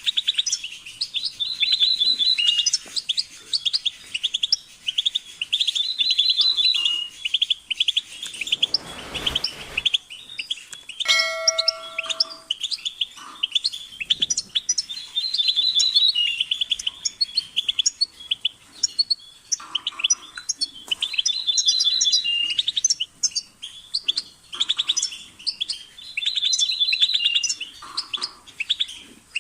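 Goldfinch singing a fast, continuous run of high twittering chirps and trills, with a ringing phrase recurring every few seconds. About eleven seconds in, a short, steady chime-like tone sounds under the song.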